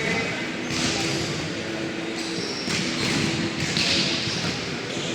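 Echoing background of many voices at a youth football match, with several short louder bursts of shouting and dull thuds of the ball.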